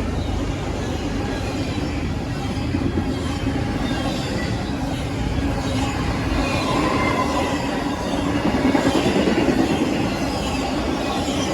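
BNSF double-stack container train's cars rolling past on the rails: a steady rumble and rattle of wheels, with faint wheel squeal coming and going.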